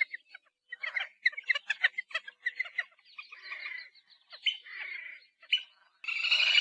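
Little grebe calling: a run of quick, high chirping notes and a few longer squeaks, then a loud, rapid trill that breaks out near the end.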